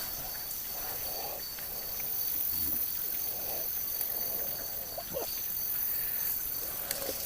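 Night insects calling in a steady, high drone, with a few faint knocks and clicks.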